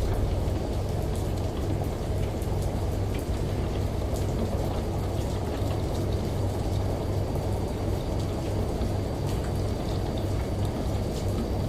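Steady rain, with scattered drop ticks over a continuous low hum.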